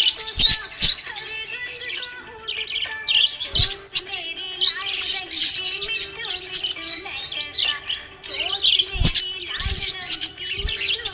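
A group of budgerigars chirping and warbling nonstop in dense, overlapping chatter. A few low thuds come through, about a third of the way in and again near the end.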